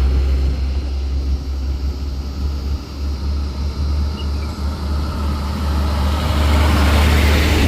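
Heavy diesel engine running steadily with a deep, continuous rumble, growing louder in the last couple of seconds.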